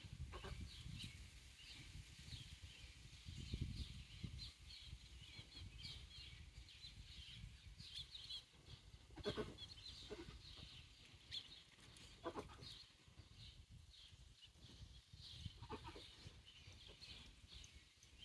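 A rescued chick peeping in rapid, short, high notes over a low rumble, with a few short knocks about nine, twelve and sixteen seconds in.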